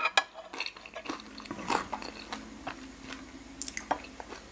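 Close-up eating sounds: soft, wet chewing of soy-marinated raw salmon and noodles, with a few light clicks of chopsticks and a spoon against the plate, the sharpest just at the start.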